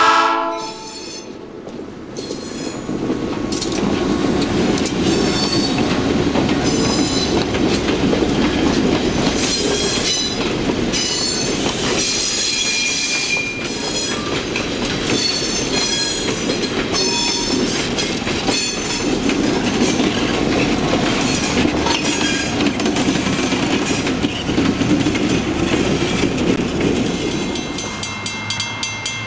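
Diesel locomotive horn cutting off, then the locomotive and its passenger coaches rolling past close by: wheels clacking over rail joints, with intermittent high wheel squeal. Near the end, a grade-crossing warning bell ringing rapidly.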